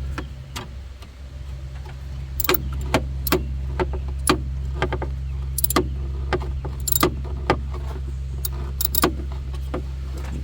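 Scattered sharp clicks and knocks as a plastic air cleaner box and its fasteners are worked into place on a truck engine, over a steady low hum.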